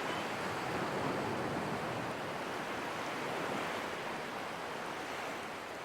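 Ocean waves washing on a shore, a steady soft hiss.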